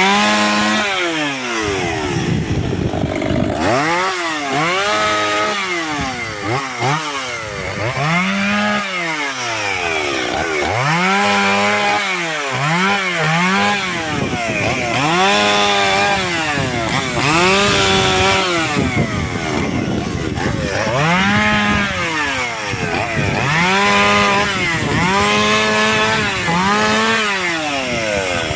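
Two-stroke chainsaw cutting wood, its engine revving up and dropping back again and again, about every two seconds.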